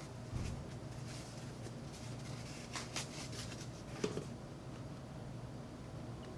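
A few light scrapes and taps as a leather boot is cleaned with shoe cleaner, over a low steady hum.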